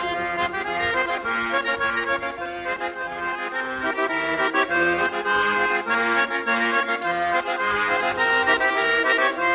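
Instrumental break in a Kyrgyz folk song: an accordion plays a melody over held chords and bass notes, without singing.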